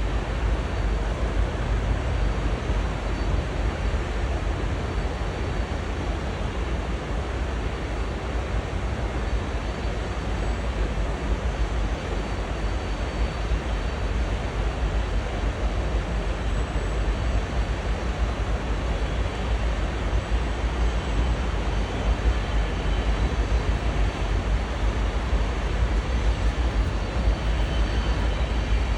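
Long freight train rolling slowly past, a steady low rumble with no letup.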